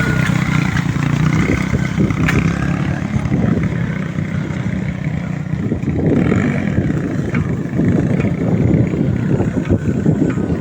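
Small motorcycle engine powering a homemade mini jeep, running continuously; a steady hum for about the first second, then rougher and uneven.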